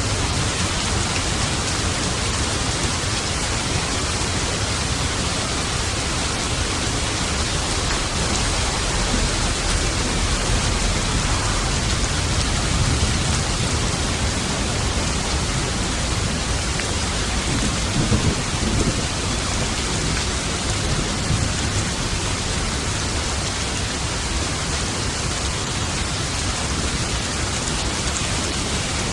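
Steady heavy rain with low thunder rumbling under it. The thunder swells about a third of the way in and rolls louder once more just past the middle.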